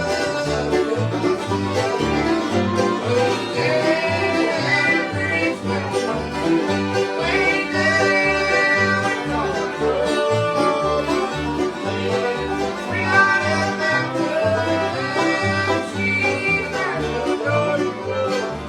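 Bluegrass band playing an instrumental passage. A fiddle carries wavering melody phrases over banjo and guitar, with a steady alternating two-beat bass underneath.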